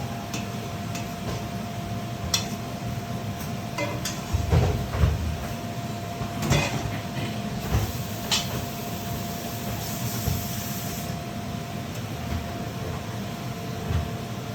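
Steady low kitchen hum with a faint constant tone, and a cluster of knocks and clinks from about four to nine seconds in.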